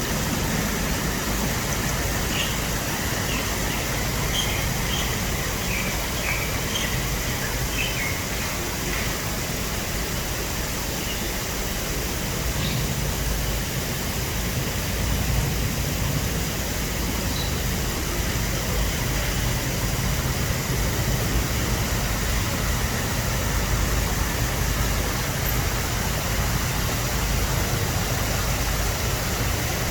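Water fountain splashing, a steady even rush of falling water. A few faint short chirps sound in the first several seconds.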